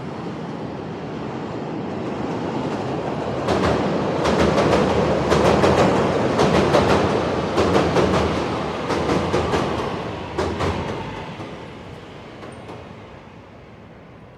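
A train passing close by: its rumble builds, peaks with a rapid run of clacks from the wheels over the rail joints, then fades away.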